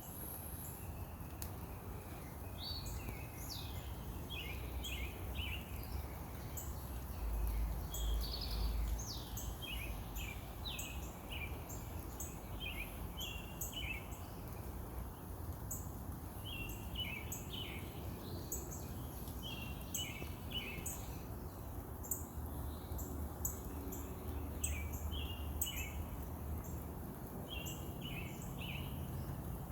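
Birds chirping, short repeated notes all the way through over a steady background hiss. A low rumble comes in about seven seconds in and again a little past twenty seconds.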